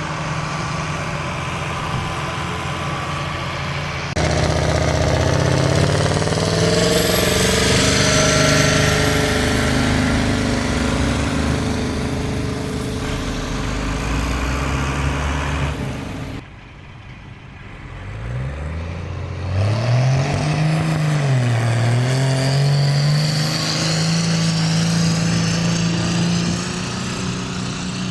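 A vehicle engine running steadily, then revving louder from about four seconds in, its pitch climbing and wavering. After a sudden cut, an engine revs up from low, dips, climbs again and then holds at a steady high note.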